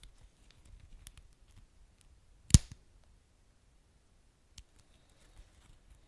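Wood fire crackling: scattered small clicks and snaps over a low rumble, with one loud sharp pop about two and a half seconds in.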